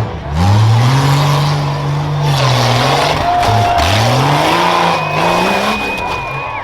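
Rough truck's engine revving hard on the obstacle course: the pitch climbs about half a second in, holds, drops sharply near four seconds in as the throttle is lifted, then climbs again.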